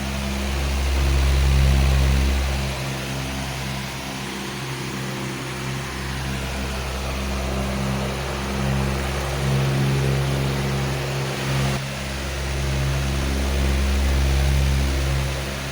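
Powerful electric fan running: a steady rush of air over a low motor hum, with a deep rumble that swells and eases every few seconds.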